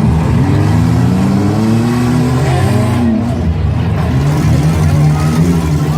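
Several race cars' engines running hard together, revving up and dropping back as they drive laps, with overlapping engine notes rising and falling in pitch.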